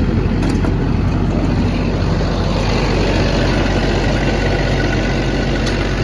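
The Cummins diesel engine of an XCMG XE210CU track excavator running steadily, with a deep, even hum and a couple of faint clicks. It sounds healthy: running great.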